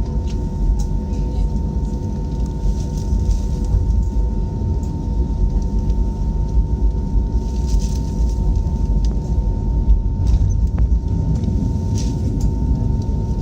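Steady low rumble of a jet airliner's engines and airframe heard from inside the passenger cabin, with a constant thin whine above it.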